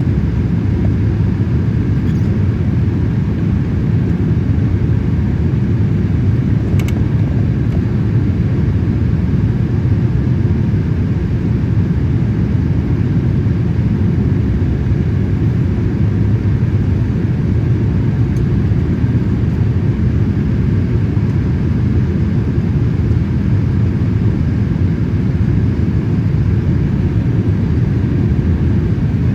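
Steady low rumble of engine and air noise inside the cabin of a Boeing 787-8 airliner, unchanging throughout.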